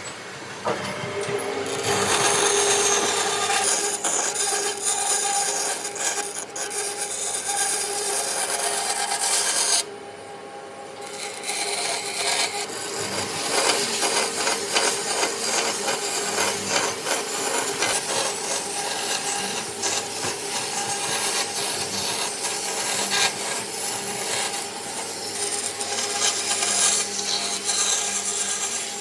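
A hand tool scraping and rubbing across wood in quick repeated strokes, with a short pause about ten seconds in.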